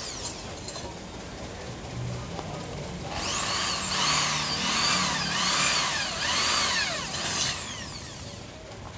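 Power drill with a 6 mm bit boring through the thin sheet-steel shell of an old oil-filter canister. The drilling starts about three seconds in, its whine rising and falling over and over as the bit cuts, and eases off near the end.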